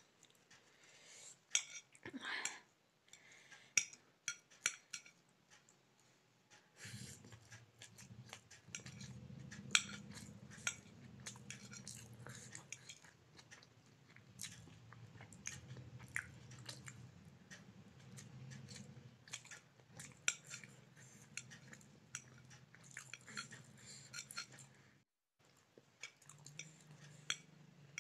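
Close-up chewing of a mouthful of pasta and noodles, with many small mouth clicks and a fork clinking on a ceramic plate. A low steady hum comes in about a quarter of the way through and cuts out briefly near the end.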